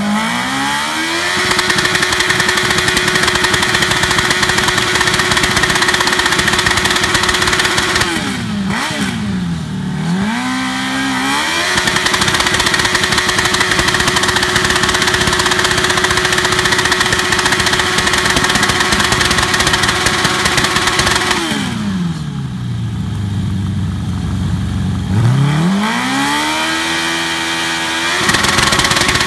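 Motorcycle engine held at high revs during a burnout, the rear tyre spinning against the pavement. The engine climbs and holds a steady high pitch, drops and climbs back about eight to ten seconds in, holds again, falls to idle a little after twenty seconds, then revs up again near the end.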